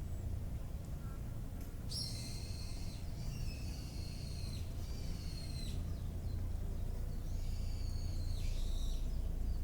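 A bird singing clear, held whistled notes: one long phrase from about two seconds in to nearly six, and a shorter phrase near the end. A steady low rumble runs underneath.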